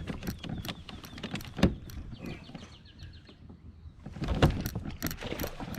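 Knocks and bumps of fishing gear against a kayak while a hooked bass is fought to the boat, with a short run of fast clicks about two seconds in and a heavier thump about four seconds in.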